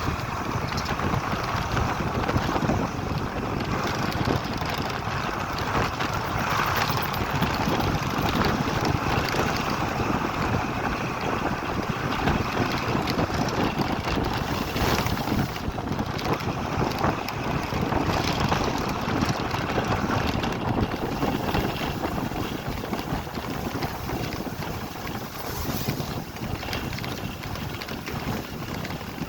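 Steady wind noise buffeting the microphone over a low rumble.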